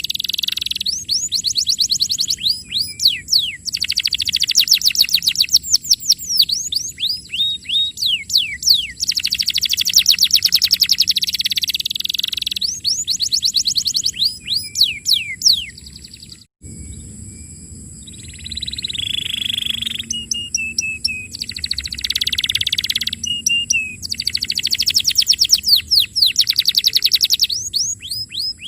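Domestic canary singing: long rolling trills of rapid, evenly repeated high notes and quick downward sweeps, in phrases of a few seconds with short pauses, briefly cut off about halfway through.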